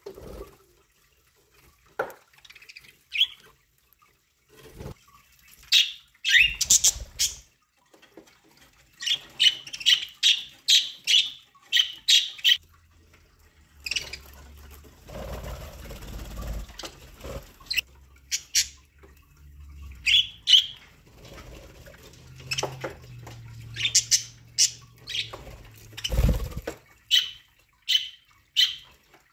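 Budgerigars chirping and squawking in many short calls, with a low hum through the middle stretch.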